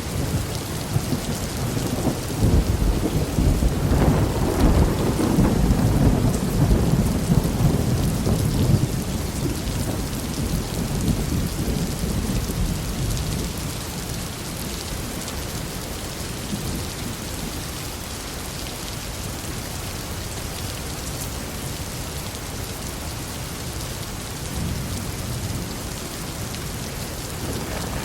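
Heavy rain falling steadily with rolling thunder. A long, deep rumble builds in the first few seconds and fades away after about ten seconds, leaving the rain alone, with a fainter rumble near the end.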